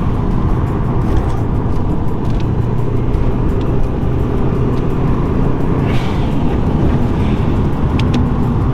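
Subaru Impreza WRX flat-four engine running steadily while the car is driven, with tyre and road noise and a brief rushing hiss about six seconds in.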